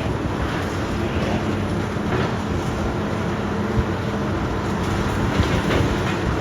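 Heavy demolition machine's engine running steadily, with a couple of short knocks partway through.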